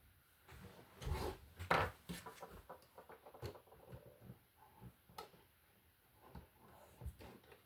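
Plastic Lego pieces being handled and fitted together: scattered light clicks and rustling, the loudest about a second and two seconds in.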